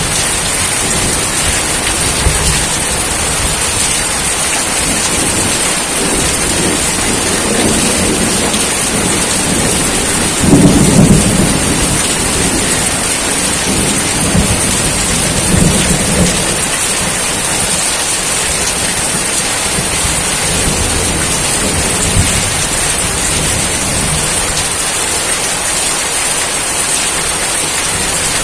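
Steady heavy rain hissing, with low rolling thunder rumbles coming and going, the loudest about ten seconds in.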